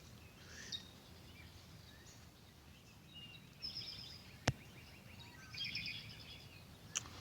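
Small birds chirping faintly in a few short bursts of song. A single sharp click comes about midway, and a smaller one near the end.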